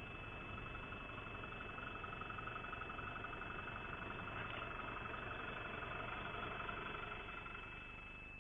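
A vehicle engine running with an even pulsing, growing slightly louder and then fading about seven seconds in.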